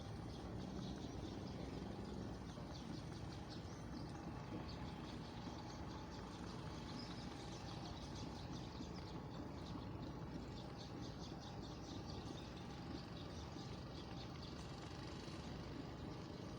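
Riverside ambience: a steady low rumble under dense, rapid high-pitched chirping.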